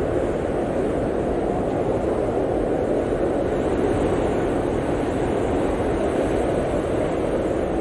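Steady blizzard wind: an even, unbroken rushing noise, strongest low in pitch, with no gusts or breaks.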